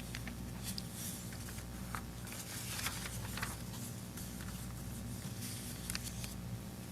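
Quiet room tone during silent prayer: a steady low hum with scattered faint rustles and small clicks.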